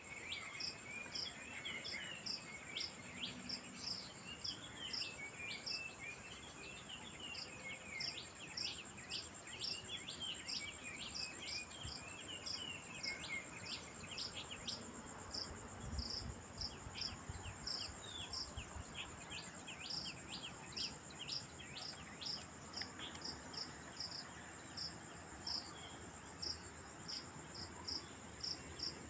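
Insects trilling: one steady high buzz, with a shorter high chirp repeating once or twice a second. Birds call over it with quick chirps and twitters, busy for the first half, then fewer.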